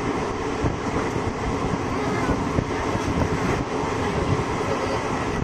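Moving passenger train heard from inside the coach: a steady rumble of wheels on rails with scattered clicks.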